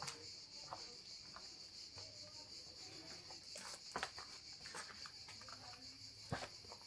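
Steady high-pitched chirring of an insect chorus, crickets or cicadas, with a few scattered sharp taps and clicks, the loudest about four seconds in and near the end.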